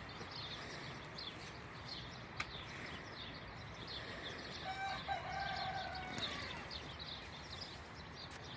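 A rooster crows once, about halfway through: one long call that falls in pitch at the end. Small birds chirp steadily throughout.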